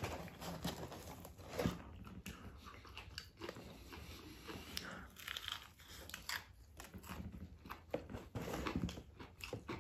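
A person biting into and chewing a crispy fried chicken burger, with soft, irregular crunching and crackling of the breading.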